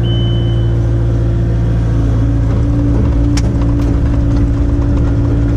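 Diesel engine of a construction machine running steadily at a constant speed, heard from inside the cab. A short high beep sounds right at the start, and a single sharp click comes about three and a half seconds in.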